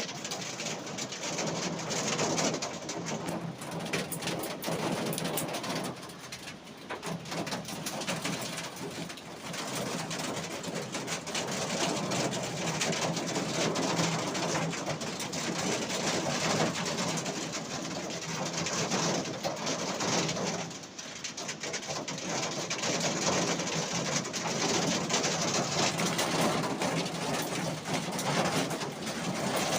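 Heavy rain pouring down, a dense hiss of drops with fine pattering clicks, easing briefly twice. A pigeon coos through the rain.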